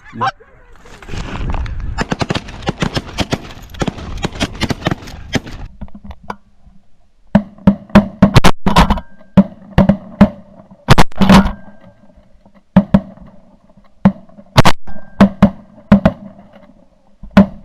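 A volley of shotgun blasts from several goose hunters firing at specklebelly geese: close, very loud shots coming in quick clusters, about eighteen of them through the second half. Before the shooting there are a few seconds of dense crackling noise.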